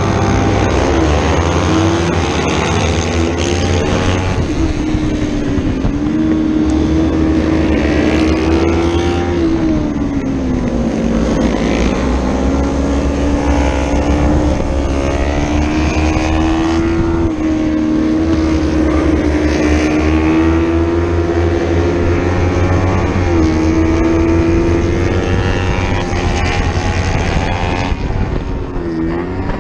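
Racing motorcycle engine running hard under way, its note rising and falling as the bike accelerates and slows, dipping sharply a few times, over steady rushing wind.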